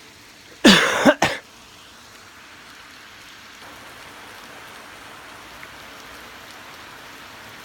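A person coughing twice in quick succession close to the microphone, about half a second in, over a steady hiss of heavy rain.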